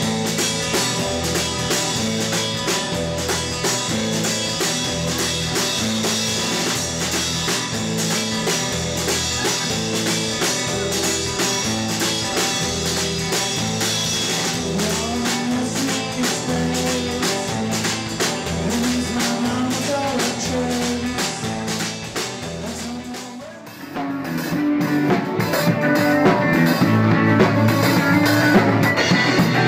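Live band music with drum kit and guitar over a steady beat. About 23 seconds in it dips briefly, and a louder section or a different song comes in.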